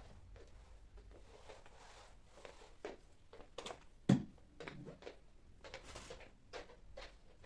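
Light clicks and knocks of household objects being handled and set down while cleaning, irregular, with one louder knock about four seconds in.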